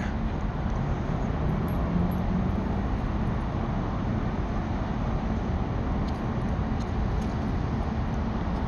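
Steady low rumble of distant road traffic, with no sharp sounds standing out.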